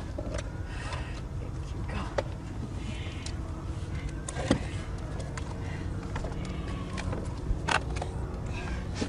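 Steady low outdoor rumble with a few sharp clicks and knocks scattered through it, the loudest about four and a half seconds in and near the end, and faint voices in the background.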